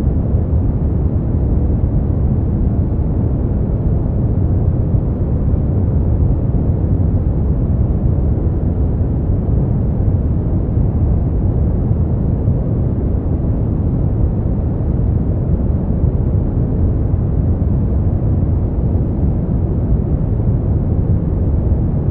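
Brown noise: a steady, deep rushing hiss with most of its weight in the low end and little above a few thousand hertz, unchanging throughout.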